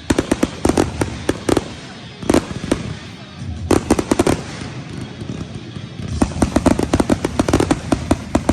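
Fireworks finale: volleys of aerial shells bursting with sharp bangs and crackle, in clusters that thicken into a dense rapid barrage about six seconds in.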